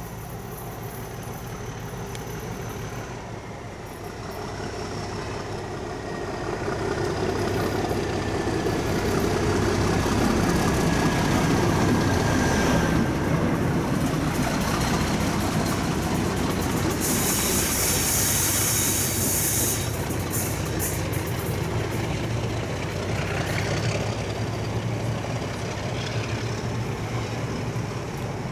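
A locomotive hauling a Class 321 electric unit slowly past the platform: the engine running and the steel wheels rolling on the rails, swelling from about four seconds in, with faint thin wheel squeal and a short burst of hiss around the middle.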